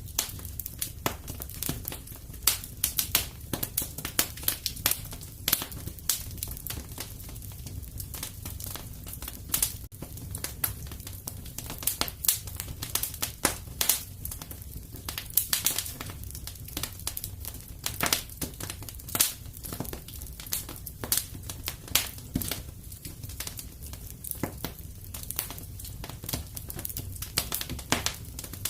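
Fireplace fire crackling, with irregular sharp pops and snaps, several a second, over a steady low rumble.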